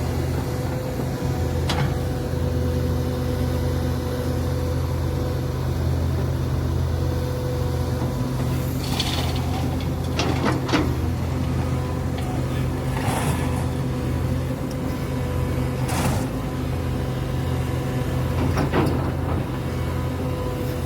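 Link-Belt excavator's diesel engine running at a steady speed. About half a dozen brief sharp squeaks or clanks rise over it at irregular intervals.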